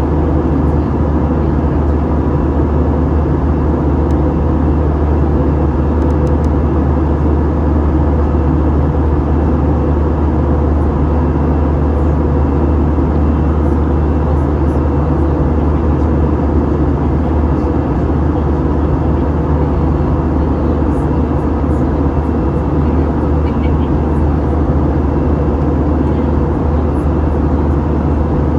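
Steady engine and airflow roar inside an Airbus A321 cabin, with a deep rumble and several steady hums and no change in level.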